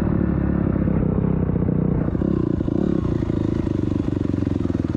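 Dirt bike engine running, with a rapid, even firing beat that comes through more clearly about two seconds in.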